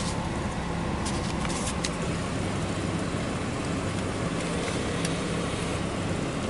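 Car engine idling steadily, with a few light clicks in the first two seconds.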